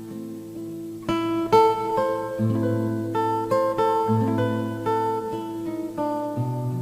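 Background music: an acoustic guitar playing plucked notes and chords over a bass line.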